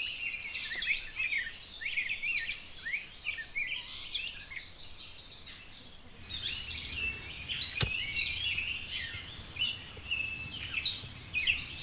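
Several birds singing and chirping together at a lakeshore, with a high note repeated about three times a second through the first half. There is a single sharp click about two-thirds of the way through.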